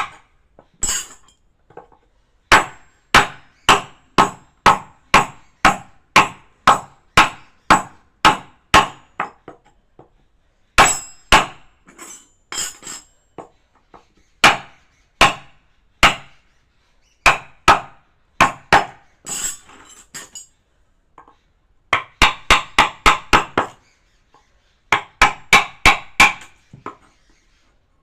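Mallet striking a wood-carving chisel in a steady series of sharp knocks, about two a second, with a few runs of quicker, lighter taps and short pauses between.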